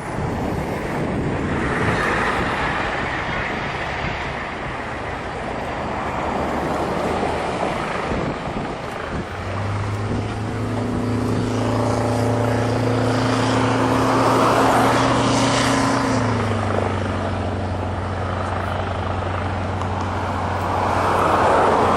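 Aircraft noise: a loud rushing sound, joined about halfway through by a steady low engine hum that drops slightly in pitch about two-thirds of the way in.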